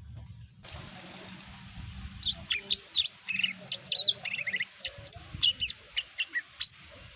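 Cucak ijo mini (lesser green leafbird) singing a quick run of sharp chirps and short trills, starting about two seconds in, over a faint steady hiss.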